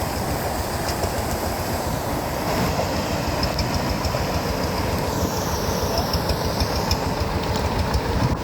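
Rice-field tractor's diesel engine running steadily, with a rapid, even pulsing beat.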